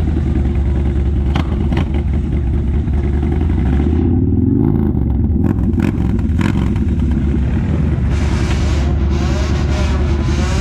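A vehicle engine running with a loud, deep note, with a short rev that rises and falls about halfway through.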